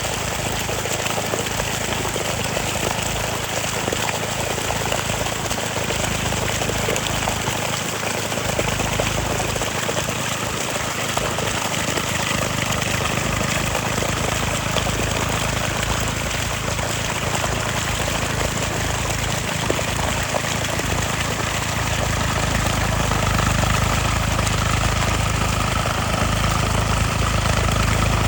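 Eicher 485 tractor's three-cylinder diesel engine running steadily under load while puddling a wet paddy field, with a constant low hum that grows louder over the last few seconds.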